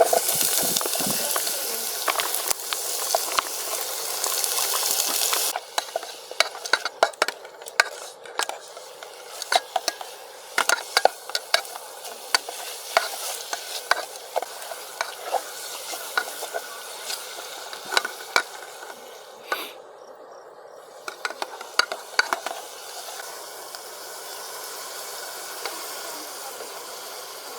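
Food frying in hot oil in a pan. A loud sizzle lasts about the first five seconds, then drops to a quieter sizzle. Over it, a utensil scrapes and taps against the pan again and again as the food is stir-fried.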